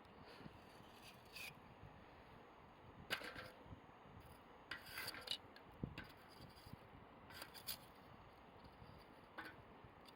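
Quiet campfire: burning wood giving a few faint, scattered crackles and scrapes over a low hiss.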